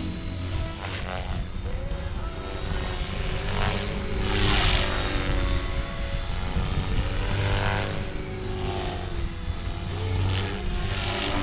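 Electric RC helicopter flying, its rotors and motor giving a steady high whine with a lower hum. The sound swells and fades twice as it passes by. It is being flown after crash repair with its bent shafts replaced.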